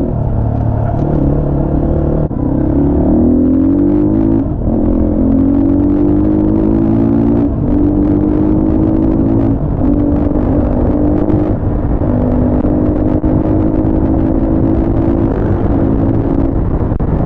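250 cc motorcycle engine running under way. Its revs climb about two to four seconds in, then hold fairly steady, dipping briefly and recovering every couple of seconds as the throttle is eased and reopened.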